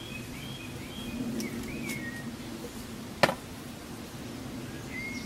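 A bird chirping, a few short calls in the first two seconds over a steady low background hum, and a single sharp click a little over three seconds in.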